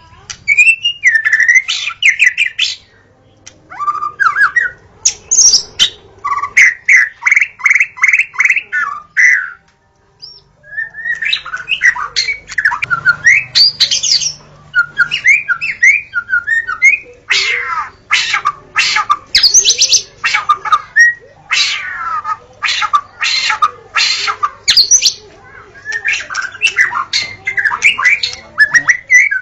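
White-rumped shama (murai batu) singing a long, varied song of loud whistles and runs of rapid repeated notes, with a short pause about ten seconds in. The later phrases mix in harsher, clipped notes.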